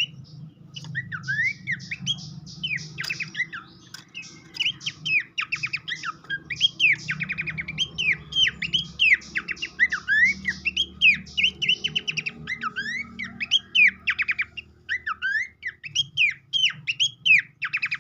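Horsfield's babbler (pelanduk semak) song played as a lure: a busy run of whistled notes that sweep quickly down and up, mixed with rapid trills, going on without a break. A faint low hum lies underneath.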